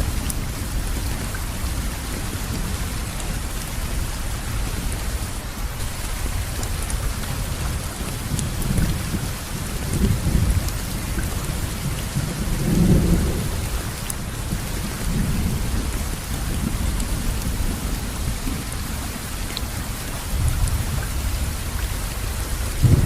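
Steady rainfall hissing evenly, with low thunder rumbling and swelling several times, most strongly about halfway through and again near the end.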